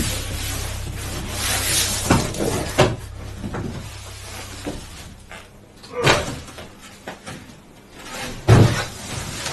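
Irregular knocks and thumps with rustling in between, the loudest thump near the end, typical of handling and unpacking.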